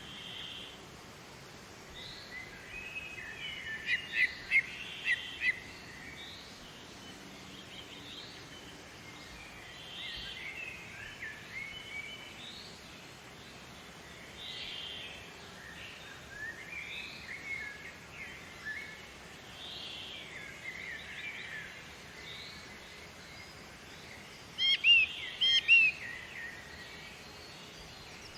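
Wild birds chirping and singing in short repeated phrases over steady background noise, with two louder bursts of rapid chirps, one about four seconds in and one near the end.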